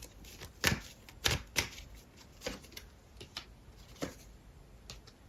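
Tarot cards being handled and laid down on a table: a few irregular short, sharp clicks and taps.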